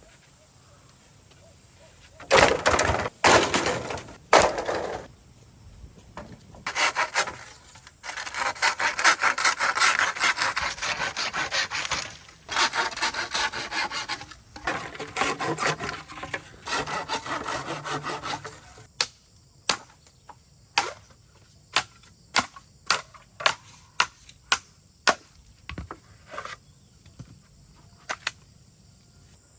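Rasping strokes of cutting into wood or woody stems, like sawing, for stretches of several seconds. Then a steady run of sharp chops, a little more than one a second.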